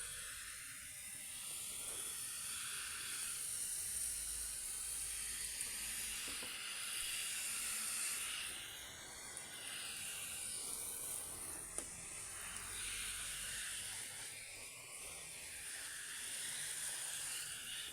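Water spraying in a steady hiss as plants are watered, cutting off suddenly at the very end.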